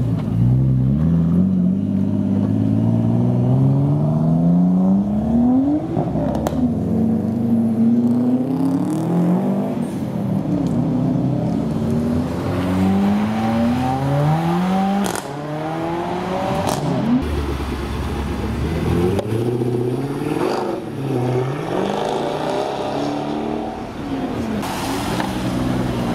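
Several performance cars, among them a Nissan Skyline R34 and a Mercedes-AMG CLA 45, accelerating hard one after another. Each engine rises in pitch through the gears, drops at the shifts and climbs again, with a few sharp cracks along the way.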